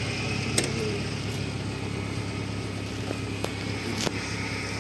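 Car engine running steadily at low revs, with three short sharp clicks or knocks.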